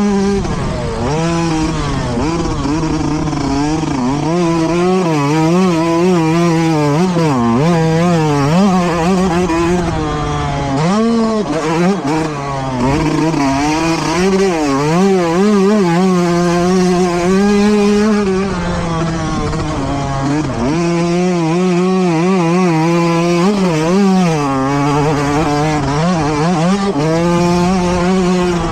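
Motocross dirt bike engines revving hard and falling back over and over as the throttle opens and closes, the pitch constantly rising and dropping, with deeper dips around a third of the way in and again past the middle.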